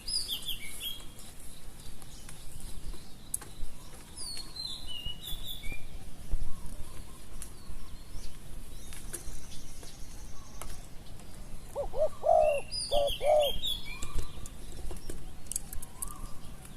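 A spotted dove cooing a short phrase of low, arched notes about twelve seconds in. Small birds chirp high, quick notes several times around it.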